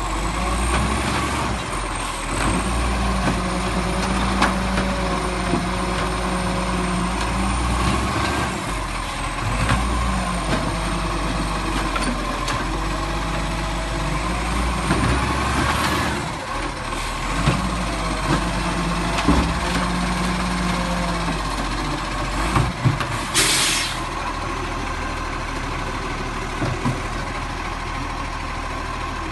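Garbage truck's diesel engine running under load, with high whines rising and falling a few times, then a short hiss of air brakes about three-quarters of the way in, after which the engine settles to idle.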